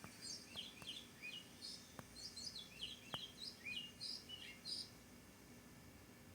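A small songbird calling faintly: a quick series of short, high chirps, each sweeping down in pitch, about three a second. The calls stop about five seconds in.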